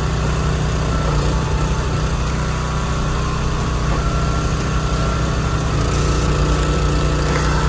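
Small engine of a hydraulic log splitter running steadily.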